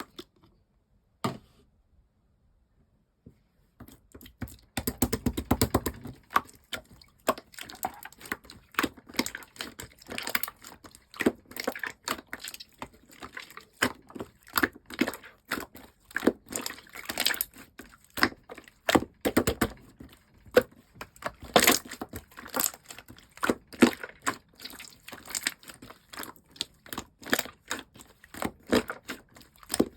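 Slime being worked by hand: after a few quiet seconds with a couple of single clicks, a dense, steady run of sticky clicks, pops and crackles starts about four seconds in.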